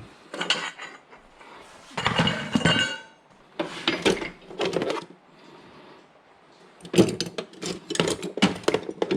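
Hand tools clinking and clanking against metal in bursts while the old brake hose is cut off the front suspension, with one clank about two seconds in that rings briefly and a busier run of clicks near the end.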